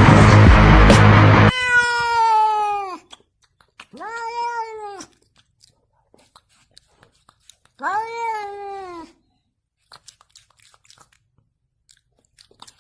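Music cuts off about a second and a half in. A domestic cat then gives three long meows a couple of seconds apart, each rising slightly and falling away at the end, with faint clicks in between.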